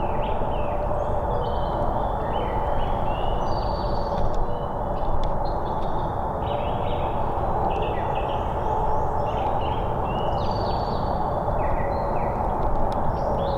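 Several songbirds chirping and trilling over a steady, loud low rumbling noise.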